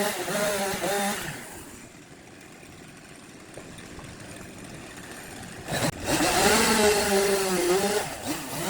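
Power tool motor running with its pitch wavering under load. It drops away after about a second, leaving a few seconds of quieter noise. A sharp knock comes near the end, and then the motor sound returns.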